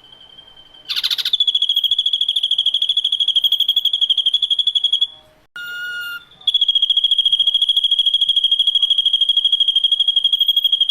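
Ashy drongo giving two long, fast-pulsing trills on one high, steady pitch, each several seconds long, broken just past the middle by a short, lower whistled note.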